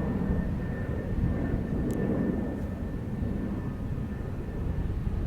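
Jet airliner engines rumbling steadily, with a faint thin high whine over the rumble.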